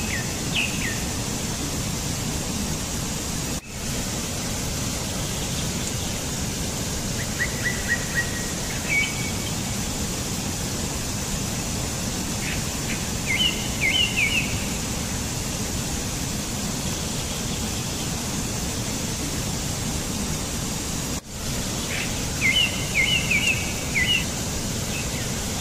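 Steady outdoor ambience hiss with a bird calling in short chirping phrases several times, busiest near the middle and near the end. The hiss drops out for a moment twice.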